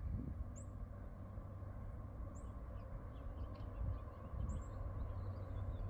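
A bird giving a few short, high chirps, spaced a second or two apart, over a low steady outdoor rumble that grows slightly louder near the end.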